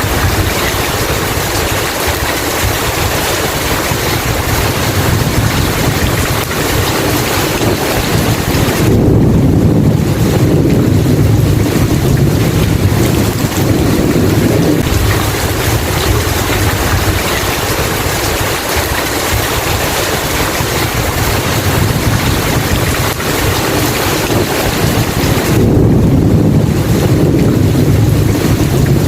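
Steady heavy rain with thunder rumbling low, once from about nine seconds in and again near the end.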